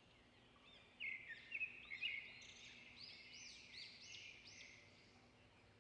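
Faint bird calls: a run of short, arched chirps and whistles, starting about a second in and fading out near the end.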